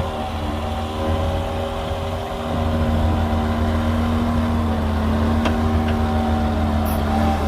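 Komatsu D60-P bulldozer's diesel engine running steadily under load, growing louder about two and a half seconds in.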